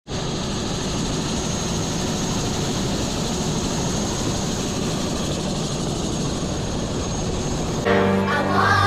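Steady, unchanging helicopter engine and rotor noise. Music with singing starts near the end.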